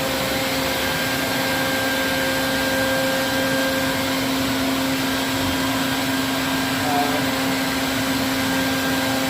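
A small motor running steadily, a constant hum over a rushing, airy noise.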